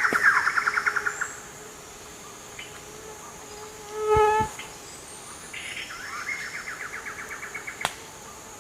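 Bird calls: a fast rattling trill that stops about a second in, one short clear note midway, then the rapid trill again, over a faint high steady hum.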